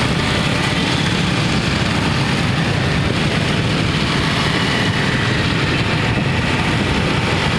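Steady noise of rain and passing road traffic on a wet city street, engines running low and tyres hissing on the wet road.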